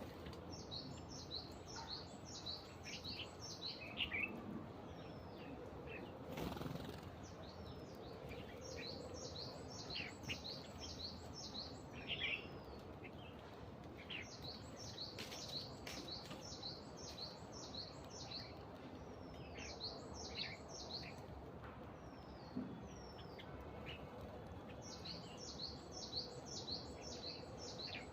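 Birds calling: several runs of rapid, high chirps, each about a second or two long and repeated every few seconds, with scattered single lower chirps between them.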